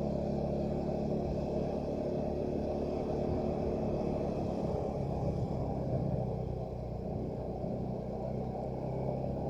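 Motorcycle engine running steadily while riding along, a low even hum with no change in speed.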